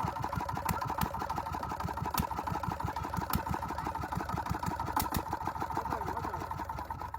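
Diesel engine running with a rapid, somewhat uneven low knocking beat and a steady higher hum, with a few sharp clicks scattered through.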